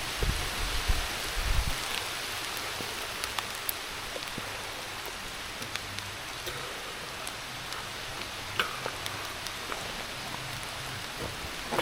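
Heavy rain falling steadily, a dense hiss with scattered sharp drop ticks, and a few dull low thumps in the first couple of seconds.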